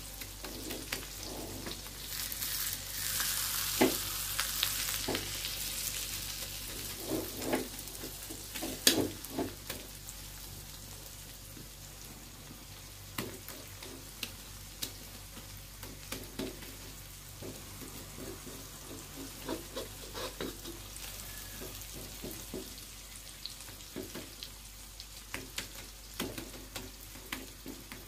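An egg mixture frying in oil in a wok, sizzling steadily while a spatula stirs it, with scattered scrapes and knocks of the spatula against the pan. A few seconds in, the sizzle grows louder for a while.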